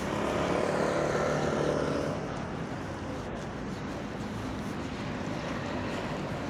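A motor vehicle's engine passing, loudest in the first two seconds and then fading into steady outdoor noise.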